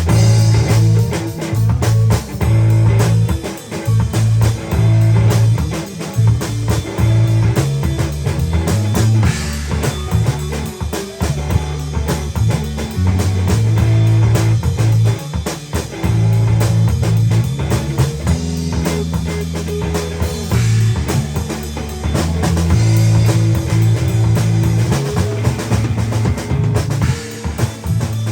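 A band playing a 12-bar blues: drum kit keeping a steady beat under a bass line and guitar.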